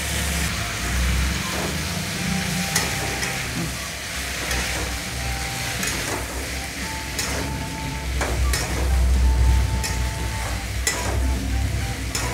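Cauliflower florets and potato pieces sizzling as they fry in hot mustard oil in a metal kadai (wok). A metal spatula stirs them, scraping and clicking against the pan every second or so, over a low steady rumble.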